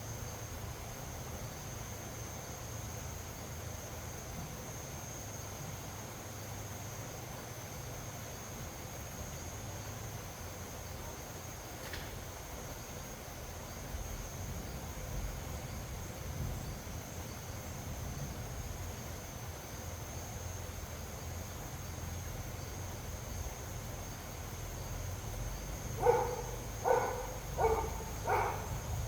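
Steady high-pitched insect drone over a low rumble of wind. Near the end, four short pitched animal calls in a row, evenly spaced and louder than the rest.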